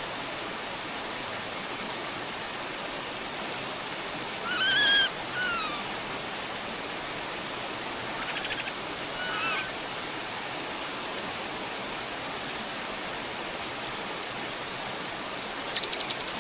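Bird calls over a steady hiss of background noise. The loudest is a clear two-part call about four and a half seconds in, the first note rising and falling and the second falling. A quick rattling trill and a short call follow near the middle, and another rattle comes near the end.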